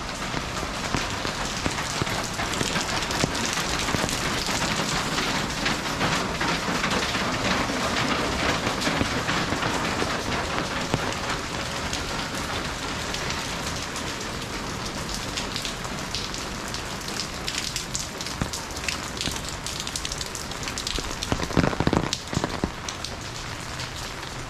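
Steady rain falling and spattering on hard surfaces, a dense haze of drop ticks. About 21 seconds in, a short cluster of louder knocks stands out over the rain.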